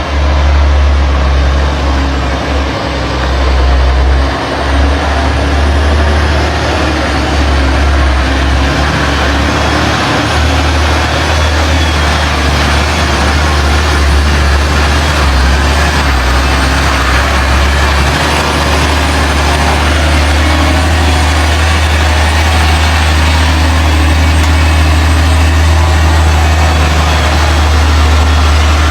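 Heavy truck's diesel engine running steadily, its sound strongest in a deep low hum, without revving up or down.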